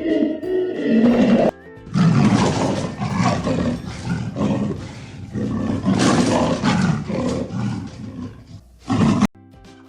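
A large animal roaring over and over for about seven seconds, after a short stretch of music at the start.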